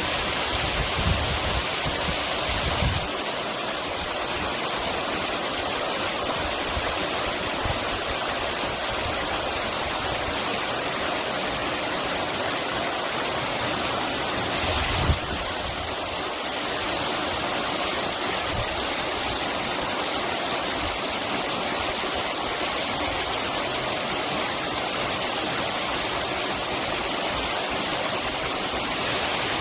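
Steady rush of flowing water, a constant hiss weighted toward the high end, with a brief low knock about fifteen seconds in.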